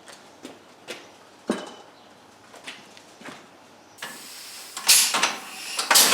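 Scattered metallic clicks and creaks. About four seconds in, a steady hiss of compressed air starts, followed by loud, irregular metallic clanking and rattling as the homemade air-powered locomotive's drive and running gear get under way.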